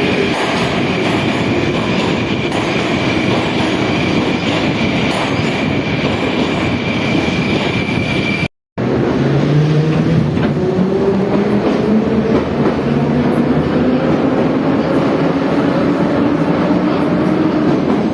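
Moscow metro train running, loud and steady, with a thin high whistling tone over the rumble. After a brief break about halfway, the traction motors whine rising in pitch as the train accelerates.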